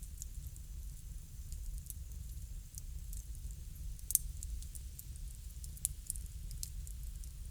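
Wood fire crackling: scattered sharp pops and snaps, the loudest a little past four seconds in, over a low steady rumble.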